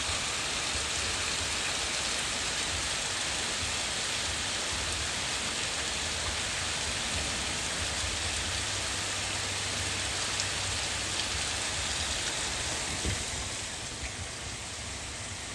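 Rain from a strong thunderstorm falling steadily, with a few single drops ticking out of the steady wash about ten to thirteen seconds in; it gets slightly quieter in the last couple of seconds.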